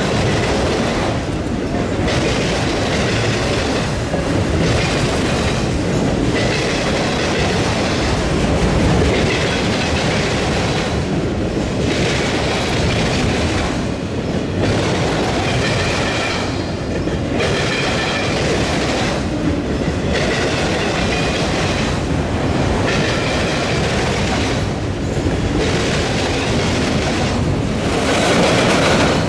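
Freight train cars rolling past over a railroad diamond crossing, wheels clattering steadily over the rail joints, with a faint wheel squeal near the middle.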